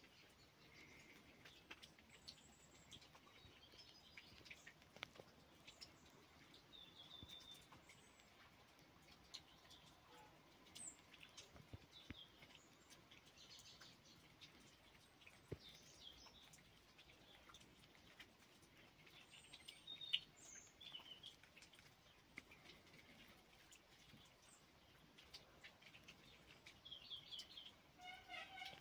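Faint, scattered chirps of small birds, with a quick run of chirps near the end, over soft ticks and taps.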